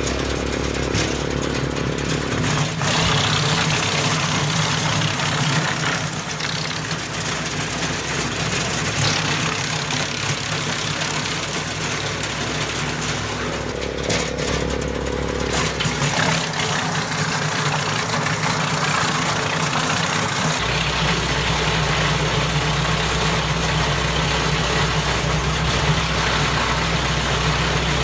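Tractor-driven wood chipper running and chipping branches: a steady diesel engine under a dense rushing noise from the chipper, with the low engine note shifting a few times as the load changes.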